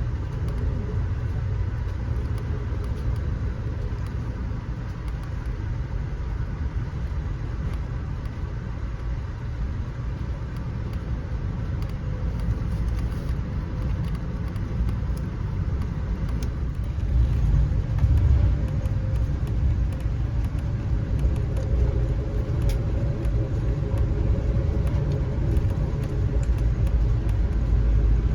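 Passenger train running, a steady low rumble of the wheels on the track heard from inside the car, growing a little louder past the middle.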